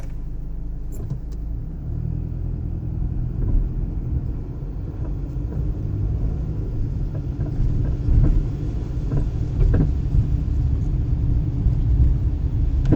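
Car being driven, a steady low rumble of engine and tyres heard from inside the cabin.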